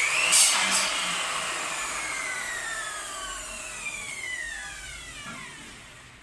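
Electric power tool motor spinning up with a short rising whine, then coasting down after being released. Its pitch falls steadily and it fades over several seconds as it winds down.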